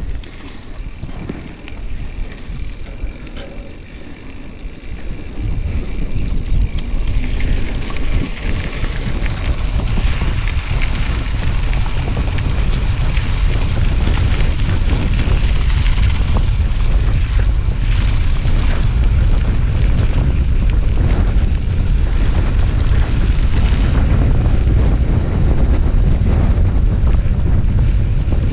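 Wind buffeting the microphone of a camera riding on a moving mountain bike, with a low rumble that swells from about five seconds in as the bike picks up speed, then stays steady.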